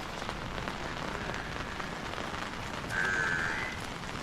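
Steady rain falling, with a brief high, slightly rising tone about three seconds in.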